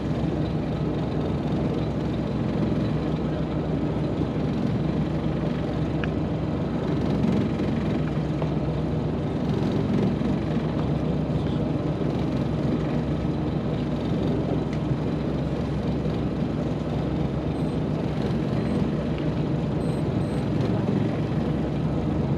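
Fishing boat's machinery running with a steady low drone that holds the same level throughout.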